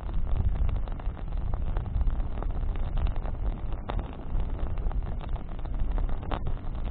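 Campfire of burning branches crackling, with irregular sharp pops and snaps over a steady low rumble of the fire.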